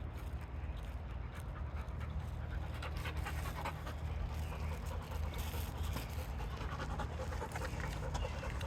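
A goldendoodle panting, with short crackling sounds throughout over a steady low rumble.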